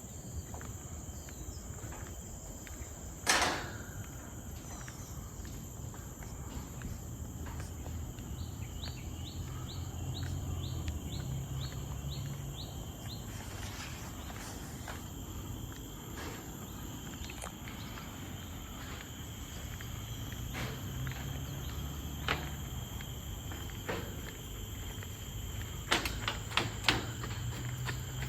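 Forest insects (crickets or cicadas) drone steadily at a high pitch over a low rumble. A run of quick chirps comes at about two a second in the middle. A sharp click comes a few seconds in, and a quick cluster of clicks near the end.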